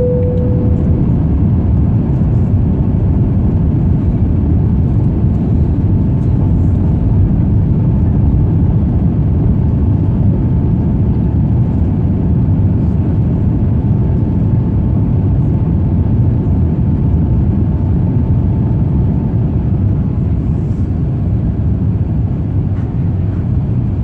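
Airbus A350 cabin noise during the climb-out: the steady, loud roar of the engines and airflow heard from a passenger seat. A single short tone rings and fades at the very start.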